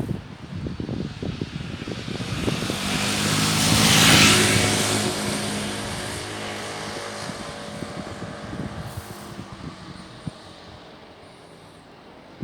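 A motor vehicle passing close by with an engine hum, growing louder to a peak about four seconds in and then fading away slowly.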